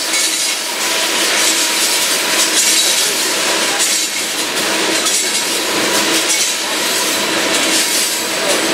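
A train rolling past, with a steady noise of wheels on the rails and faint ringing tones held over it.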